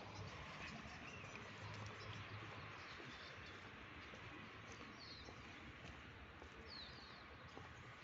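Faint steady outdoor background noise with two brief clusters of high bird chirps in the second half.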